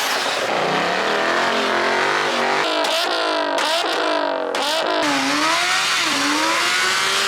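A car engine revving hard, its pitch climbing and dropping again several times, with a few abrupt breaks where the sound jumps. It cuts off suddenly at the end.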